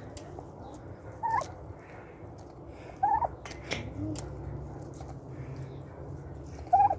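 A dog whimpering: three short, high whines, about a second in, around three seconds in, and near the end.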